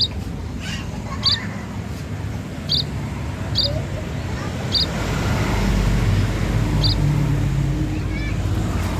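Munias (pipit/emprit) giving short, sharp, high call notes, one every second or so, six in all. From about halfway a low vehicle rumble rises beneath them.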